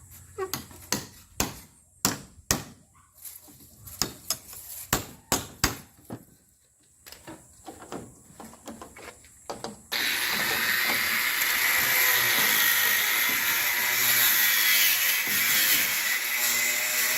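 Irregular knocks and hammer strikes for about ten seconds, then a power tool starts abruptly and runs steadily and loudly.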